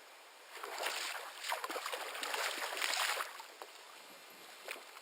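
Water splashing and sloshing in a crackly burst of about three seconds that starts half a second in, then dies away.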